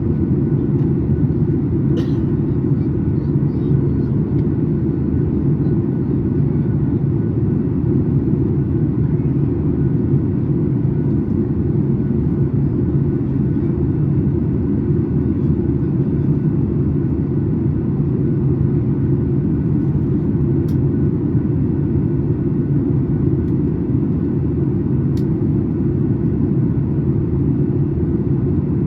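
Steady in-flight cabin rumble of a Boeing 737 MAX 8 with its CFM LEAP-1B turbofans, the airflow and engine noise heard from inside the cabin at a window seat, even in level throughout.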